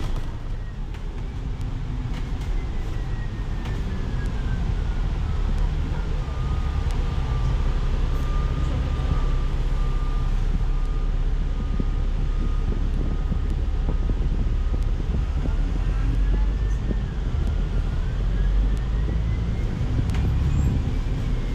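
City bus heard from inside while riding: a steady low engine and road rumble, with a thin whine that falls over the first few seconds, holds one pitch for several seconds, then rises and falls twice near the end.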